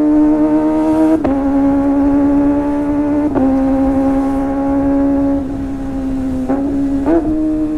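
Kawasaki ZX-25R's 250 cc inline-four engine, breathing through a Sportisi Motorsport SRX aftermarket exhaust, running at steady high revs with a high, even note. The pitch steps down slightly twice and briefly blips up near the end.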